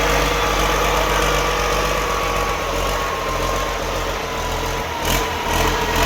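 Yanmar diesel engine running steadily at idle, with a short knock about five seconds in.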